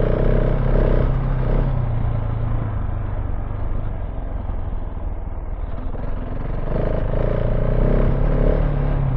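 KTM 690 Enduro R's single-cylinder engine running at a steady pace while riding off-road, with wind and rattle over the rough track.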